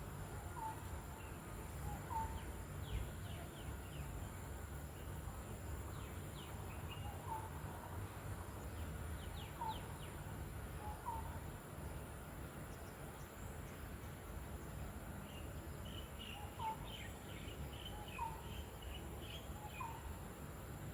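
Wild birds calling: one bird repeats a short rising note every second or two, while others give quick, higher chirps in clusters. A steady low rumble of background noise sits underneath.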